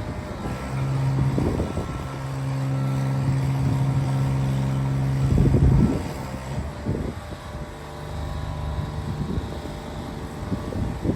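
Bucket truck engine running steadily with a hum that gets louder about a second in and drops back after about six seconds, as if under hydraulic load. A few dull knocks come through over it.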